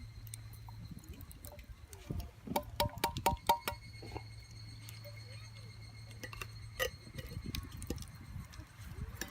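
Light metal clinks of cookware: a quick run of about five ringing taps a third of the way in, then a single clink later on.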